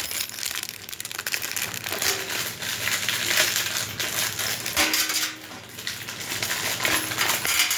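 Small metal grill parts clinking and rattling while packaging crinkles, as the pieces of a new grill are handled during assembly.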